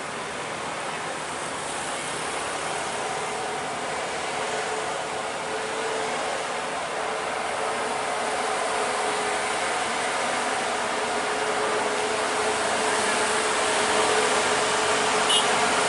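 Truck engine running with a steady drone, growing gradually louder.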